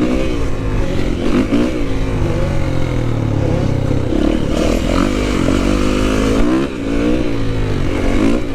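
Several motorcycle and dirt bike engines revving up and down together, their pitches rising and falling over one another, over a steady low engine rumble.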